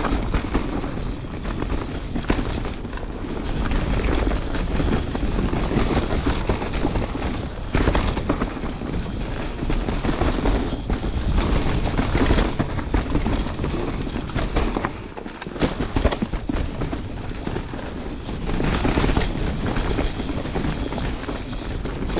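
Canyon Spectral 29 CFR mountain bike descending a dirt singletrack at speed: steady tyre roar over the ground with frequent rattles and knocks from the bike, easing briefly about two-thirds of the way through.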